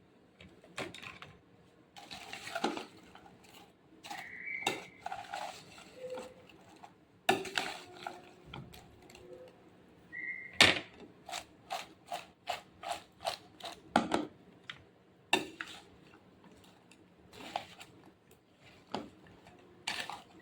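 Kitchen utensils and dishes clattering and knocking, with a run of evenly spaced taps about three a second around the middle, and a few short high tones.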